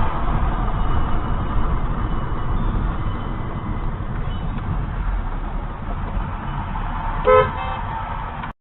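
Steady low rumble of a car driving, with one short car horn honk about seven seconds in; the sound then cuts off abruptly.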